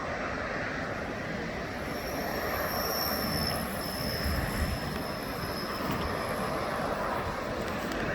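Jet airliner engines running with a steady rushing roar, and a thin high-pitched whine that comes in about two seconds in and fades out around six seconds. Wind buffets the microphone throughout.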